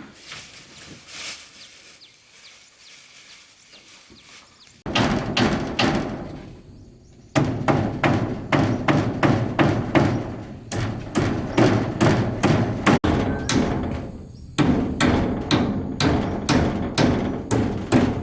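Steady, rapid blows of a hand tool striking wood, about two to three a second, starting about five seconds in after a quiet stretch and pausing briefly twice.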